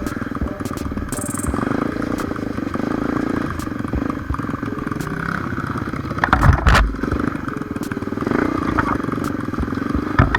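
Trail motorcycle engine running steadily as it is ridden, with loud knocks and rattles from the bike about six and a half seconds in and again near the end.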